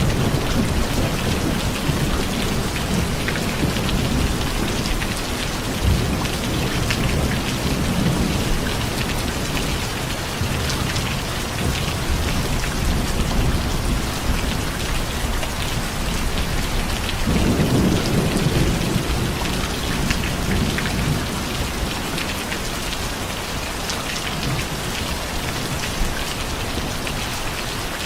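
Steady rain falling, with low rolls of thunder. The strongest roll starts suddenly a little past halfway through and rumbles for a few seconds.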